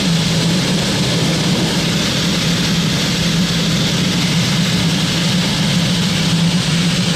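Steady rush of air in the cockpit of an L-13 Blaník glider on takeoff, with a steady low drone underneath.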